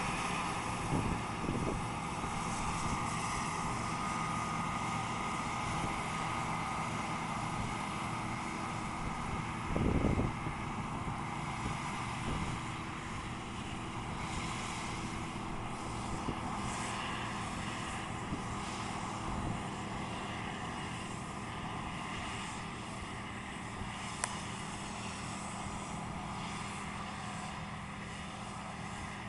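Heavy farm machinery engine running steadily, a continuous drone. There is a brief louder rumble about ten seconds in.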